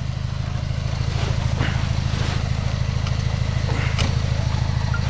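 UAZ-469 engine running with a steady, evenly pulsing low rumble, misfiring on one cylinder because a spark plug has died. A few light knocks are heard over it.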